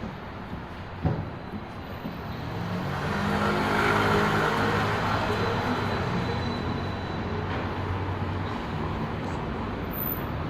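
A motor vehicle passing along the street, engine and tyre noise swelling to its loudest about four seconds in, then easing back to a steady engine hum. A single sharp knock sounds about a second in.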